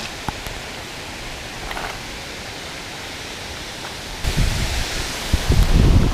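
Waterfall rushing: a steady hiss of falling water. About four seconds in it turns louder and brighter, with uneven low rumbling on top.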